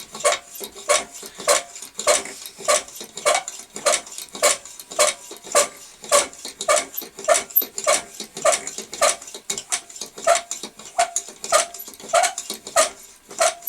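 Hand pump of a Tilley X246B paraffin pressure lamp being worked at about two strokes a second to pressurise the fuel tank, each stroke with a squeak from the pump's one-way valve.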